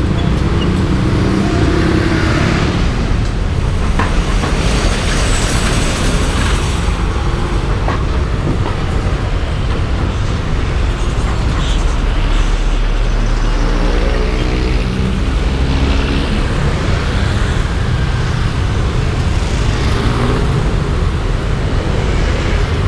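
Yamaha Aerox V2's single-cylinder 155 cc scooter engine running under way, with wind rushing over the microphone. The engine note drops at the start, as the scooter slows, and climbs again about fourteen seconds in as it accelerates.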